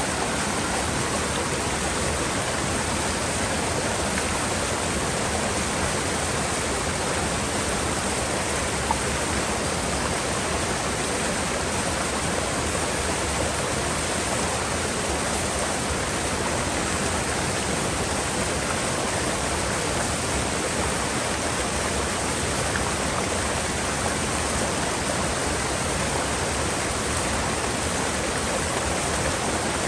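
Mountain river water rushing steadily over rocks in a gorge, a continuous even rush with no breaks.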